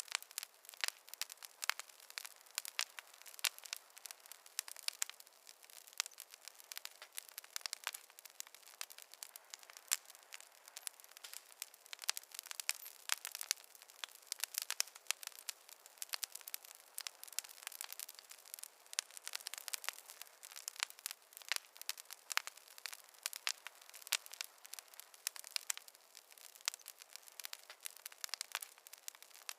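Wood fire crackling in a fireplace: dense, irregular small pops and snaps, several a second.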